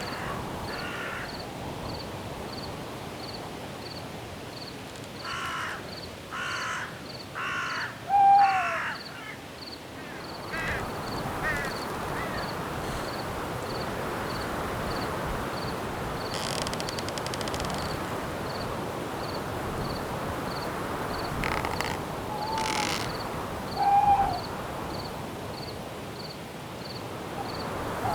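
Night forest ambience: crickets chirping steadily at about two chirps a second, a bird giving a run of four harsh calls and a couple of short hooting notes, over a steady wind-like rush that swells in the middle.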